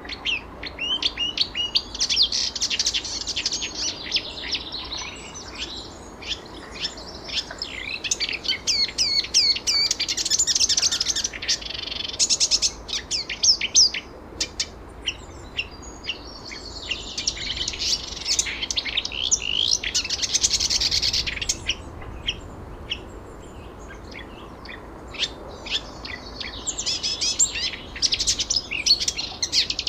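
Songbirds chirping and singing in bouts of rapid high notes, busiest around 2–5 s, 9–13 s, 17–21 s and again near the end, with quieter spells between.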